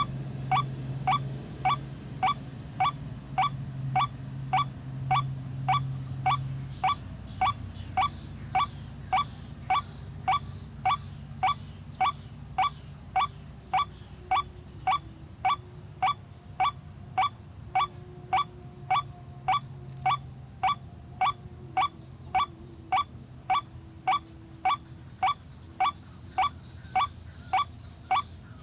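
White-breasted waterhen's "ruak-ruak" call, repeated over and over at an even pace of about two short downward-sweeping notes a second.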